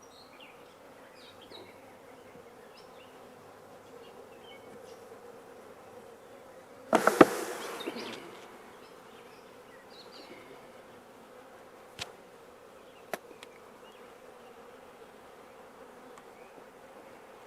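Honey bees buzzing steadily around an open hive. About seven seconds in comes a loud cluster of knocks lasting about a second, and later two sharp clicks.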